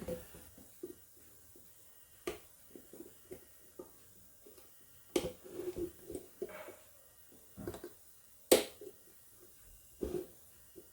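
Scattered sharp clicks and knocks of a brass clock movement and tools being handled on a workbench, the sharpest about two thirds of the way through.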